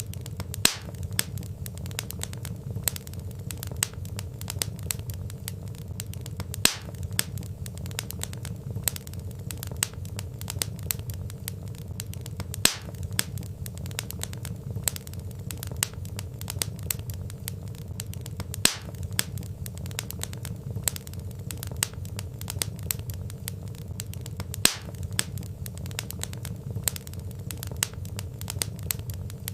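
Wood fire crackling: frequent small snaps and pops over a steady low rumble of burning logs, with a louder pop about every six seconds.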